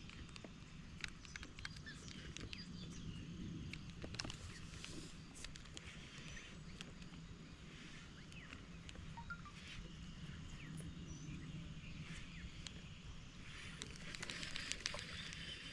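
Outdoor ambience: a steady low rumble with scattered small clicks and taps throughout, and a few faint short chirps.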